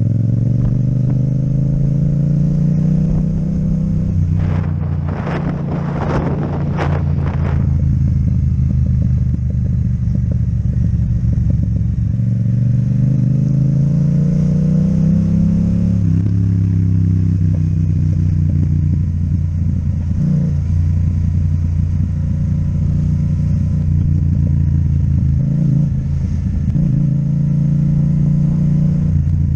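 Yamaha MT-07's parallel-twin engine with an Akrapovic exhaust, running under way; its pitch climbs with the throttle and drops at gear changes. A short cluster of rattling knocks comes about five seconds in.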